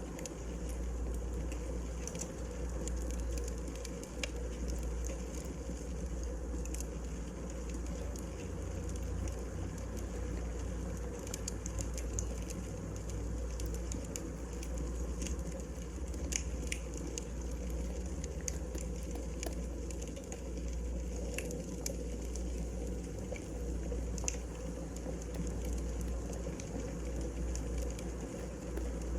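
Wood burning in a fireplace: a steady low rumble with irregular sharp crackles and pops from the burning logs.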